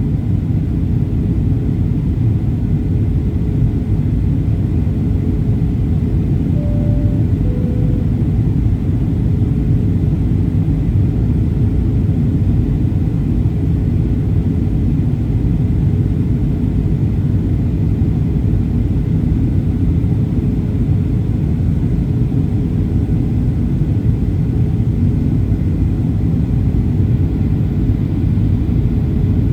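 Boeing 737-800 cabin noise on approach, heard inside the cabin: a steady deep rumble of engines and airflow with a constant hum. About seven seconds in, a short two-note falling chime sounds over it.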